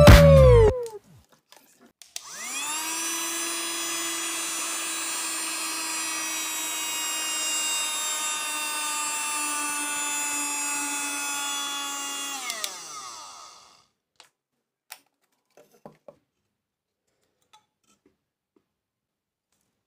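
Small DC motor of a homemade rechargeable vacuum cleaner switched on: it spins up quickly to a steady whine with a rush of air, runs about ten seconds with its pitch sagging slightly, then winds down. A few faint clicks follow.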